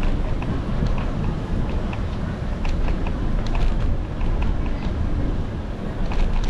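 Wind rumbling over an action camera's microphone while riding a bicycle, steady and low, with scattered light ticks throughout.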